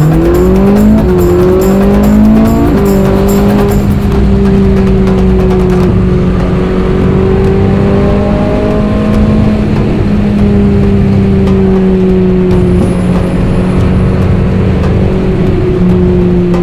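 Ferrari 458 Italia's 4.5-litre V8 accelerating through two quick upshifts, its pitch climbing and dropping back each time, then running at a nearly steady pitch while cruising.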